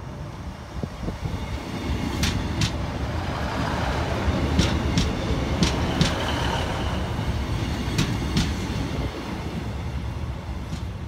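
Class 156 diesel multiple unit passing close by, its low diesel rumble swelling to a peak midway and easing as it moves off. Its wheels click over rail joints in quick pairs, four pairs in all.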